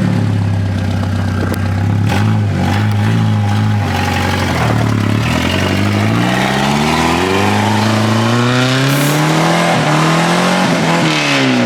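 Turbocharged Jeep engine under acceleration. Its pitch holds steady, dips about five seconds in, then climbs for several seconds before dropping near the end.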